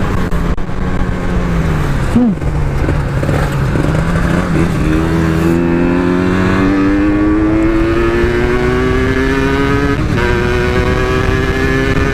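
Two-stroke motorcycle engine under hard acceleration: its pitch eases off at first, then climbs steadily, drops sharply at a gear change about ten seconds in and climbs again.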